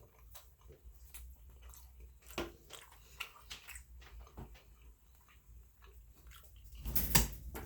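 A person chewing food close to the microphone, with scattered soft wet mouth clicks and smacks. There is a louder burst of noise about seven seconds in.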